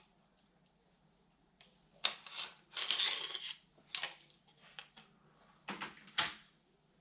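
Small hand-work noises of wires and tools being handled: a few sharp clicks and snips, with a longer scraping rustle about three seconds in.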